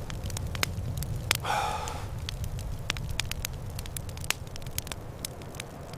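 Wood fire crackling, with frequent sharp pops over a steady low rumble. A brief whistling note sounds about a second and a half in.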